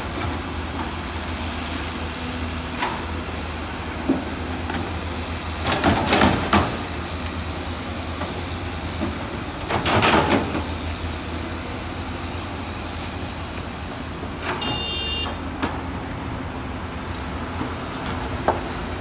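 Heavy diesel construction machine running steadily with a low drone, with two louder surges of noise about six and ten seconds in and a brief shrill squeal near fifteen seconds.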